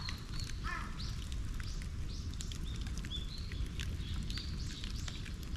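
Small birds chirping repeatedly, short high notes one after another, over the crackle of a bonfire and a steady low rumble.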